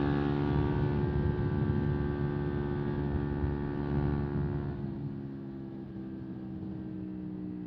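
A 125 cc single-cylinder motorcycle engine running at a steady, unchanging pitch, growing quieter about five seconds in.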